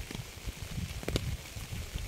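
Rain falling over a steady hiss, with drops striking a close surface in irregular low thuds and a few sharp taps.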